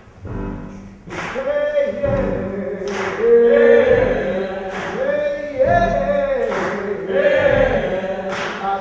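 Unaccompanied male chorus singing a chain-gang work song. A sharp percussive hit falls on the beat about every two seconds.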